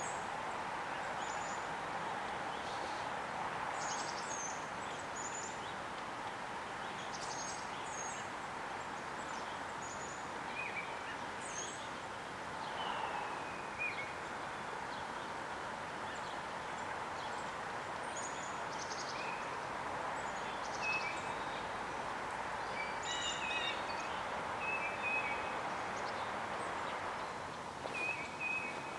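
Small songbirds calling: many short, high, thin notes scattered throughout, with a few lower chirps and down-slurred notes, over a steady rushing background noise.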